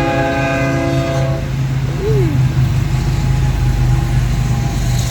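Union Pacific diesel freight locomotive's air horn blowing a chord, cutting off about a second and a half in. Under it and after it, the locomotives' diesel engines run with a steady low drone and the rumble of the train.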